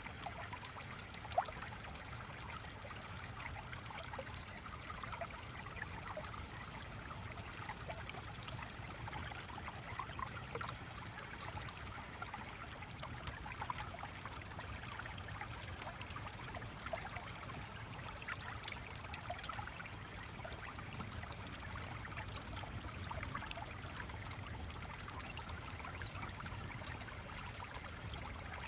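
Steady flowing-stream ambience with a low rumble beneath and many small scattered ticks through it. A single sharp pop comes about a second and a half in.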